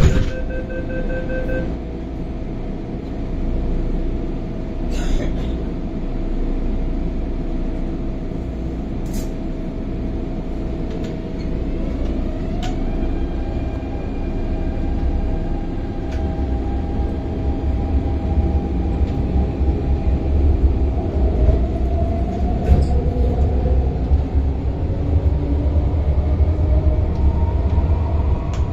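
MTR Tung Chung line CAF train: a warning beeping stops and a sharp bang sounds right at the start, which fits the doors slamming shut. The train then rumbles on, and from about twelve seconds in its traction motor whine climbs in pitch in steps as it picks up speed.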